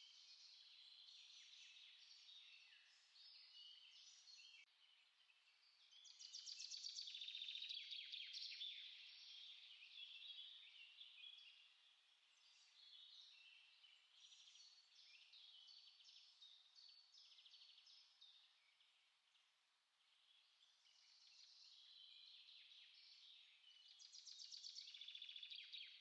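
Small songbirds singing quietly, a dense mix of short high chirps and notes. Rapid trills swell louder about six to nine seconds in and again near the end.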